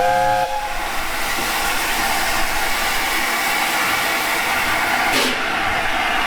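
Steam locomotive, an LNER A4 Pacific, sounding a short blast on its chime whistle, then a steady hiss of steam as it stands ready to move off. There is a single sharp exhaust beat about five seconds in.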